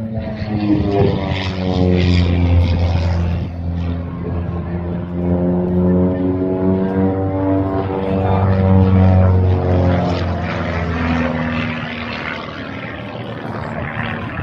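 Propeller-driven display aircraft flying past. Its engine note sweeps down and back up in pitch as it passes and manoeuvres, loudest about two seconds in and again about nine seconds in.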